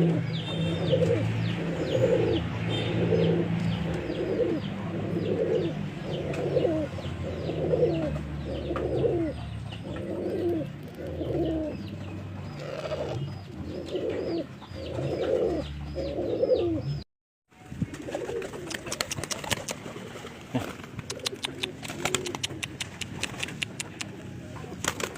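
Pigeons cooing in a steady series of low coos, about one a second, over a steady low hum. After an abrupt cut the coos grow fainter and many sharp clicks and rattles are mixed in.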